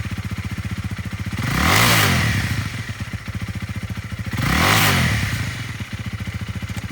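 2017 Honda Rebel 300's single-cylinder engine idling with an even, chugging pulse, revved up and back down twice.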